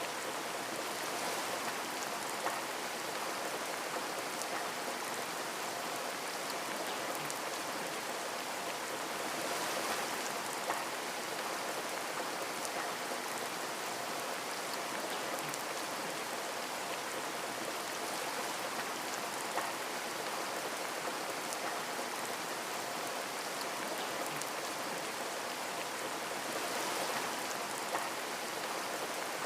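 Steady rain hissing, with scattered individual drops ticking sharply against a window now and then.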